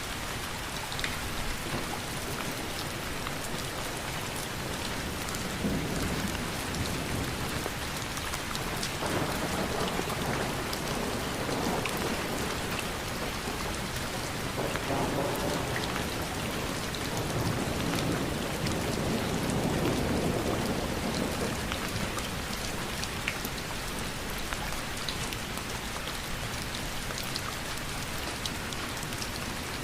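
Steady rain falling, with a dense patter of individual drops hitting surfaces. A low rumble swells up and fades a few times in the middle.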